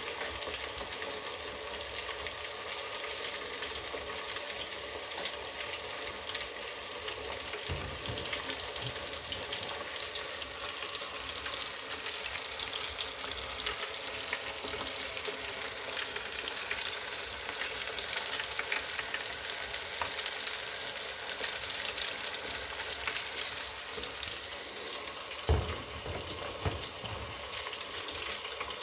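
Round gobies frying in a pan with a steady sizzle and fine crackling. There are two brief knocks, the louder one near the end.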